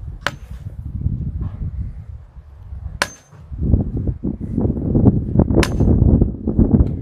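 Hammer striking the top of a steel well pipe to drive it into the ground: three sharp metallic blows about two and a half seconds apart, each with a brief ring. Wind buffets the microphone throughout, heavier in the second half.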